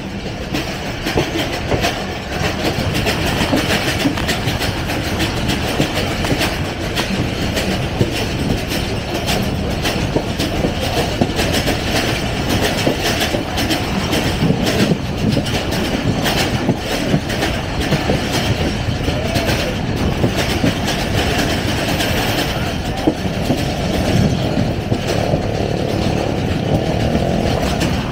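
Pakistan Railways passenger train running along the line, its coach wheels clattering steadily over rail joints and points, heard from the open side of a coach.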